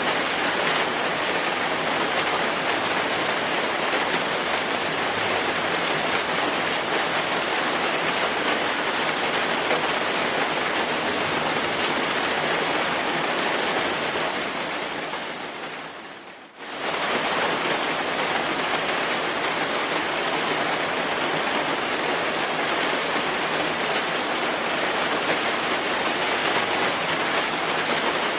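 Steady, dense rainfall hissing on a surface. Around the middle it fades away over about two seconds and then jumps straight back to full strength.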